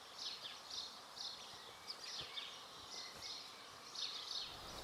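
Birds chirping: a steady run of short, high, falling chirps, about two or three a second, over faint background hiss.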